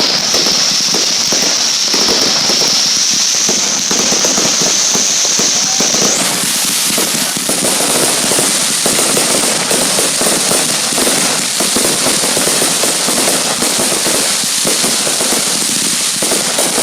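Many fireworks and firecrackers going off at once in a dense, continuous crackling and popping barrage. A thin high whistle runs over it and jumps up in pitch about six seconds in.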